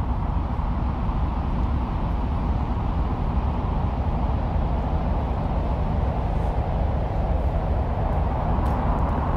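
Original audio recorded on the surface of Mars and released by NASA: a steady, low, rumbling noise with no clear separate events.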